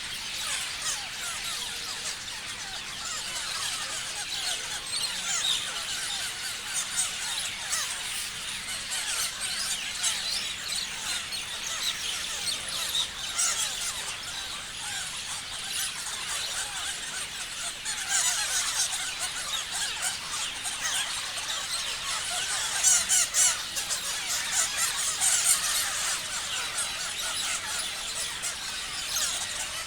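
A flock of parrots chirping and screeching without pause, many short calls overlapping, with louder shrill screeches breaking out now and then.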